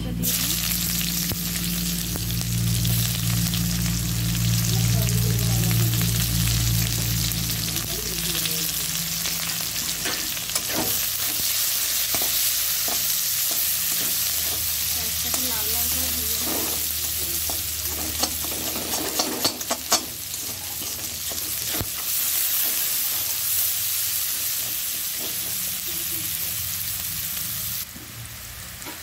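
Sliced onions sizzling in hot mustard oil in a wok, stirred with a spatula that scrapes and clicks against the pan now and then, most often in the middle stretch. A low hum sits under the sizzle for the first several seconds, and the sizzle drops off suddenly near the end.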